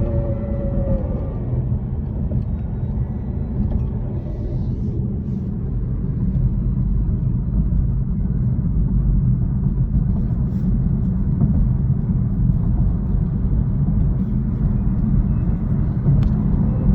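Low, steady driving rumble from a 2019 BMW i3. At the start a falling grinding whine fades out within about a second, and near the end it starts again. The uploader hears that grinding when the car slows and regenerative braking kicks in.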